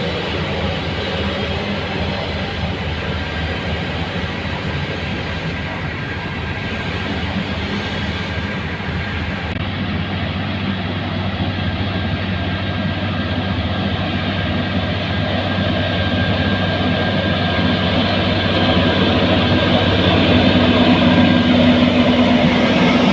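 Heavy road-construction machinery engine running steadily, growing louder over the last few seconds.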